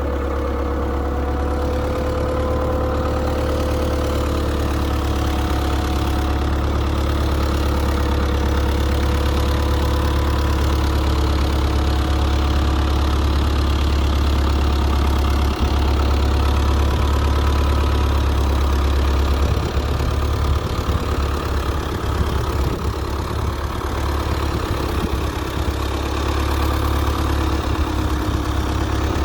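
Case tractor engine running at a steady idle.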